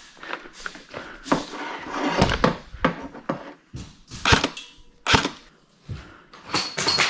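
A string of irregular knocks and clatters, roughly one a second, with no steady sound underneath.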